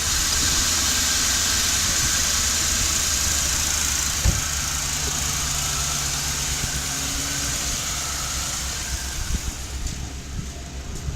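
Mercury police car's 4.6-litre V8 idling steadily just after being restarted, under a steady hiss that fades near the end. A single short knock about four seconds in.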